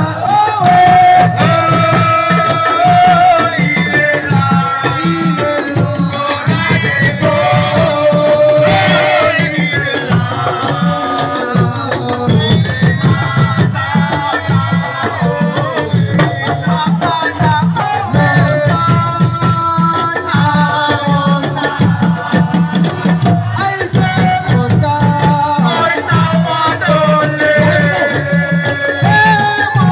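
Live assiko band music: a singer's voice over dense, fast hand drumming.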